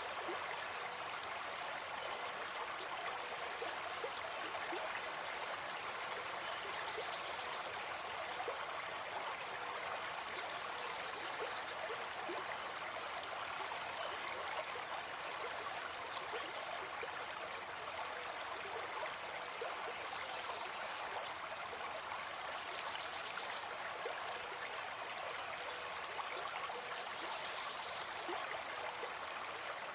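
Gentle forest stream flowing over rocks, a steady, even rush of water with fine splashing and gurgling.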